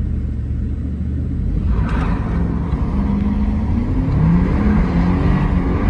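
2009 Jeep Commander's 5.7 Hemi V8 engine running under load, its revs climbing from about three seconds in. A rushing hiss joins about two seconds in as the tyres churn through snow.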